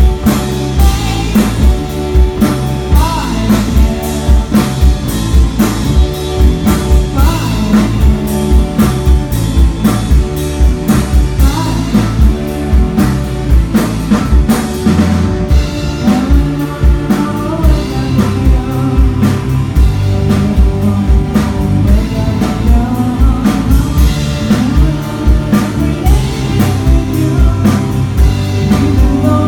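Rock song with a steady drum-kit beat, bass, electric guitar and a singing voice.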